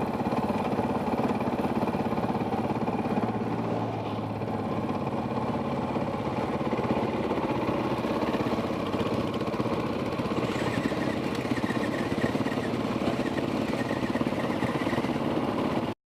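Off-road dirt bike engine running steadily, with no big revs. The sound stops abruptly near the end.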